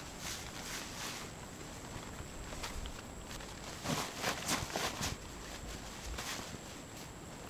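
Irregular rustling and crunching, with a cluster of louder crunches about halfway through.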